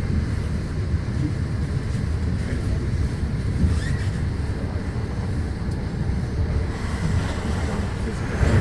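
Passenger train running along the line: a steady low rumble.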